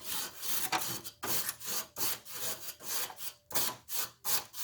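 Coil brush scrubbing back and forth across the dusty fins of a Haier window air conditioner's evaporator coil, in quick rasping strokes about two a second.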